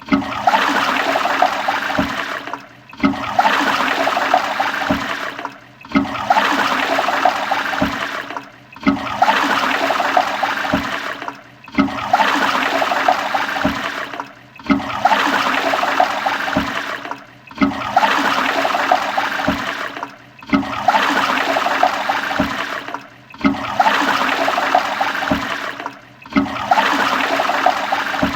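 Toilet flushing over and over, about every three seconds: each flush is a short rush of water that fades and breaks off before the next begins, about ten times in a row.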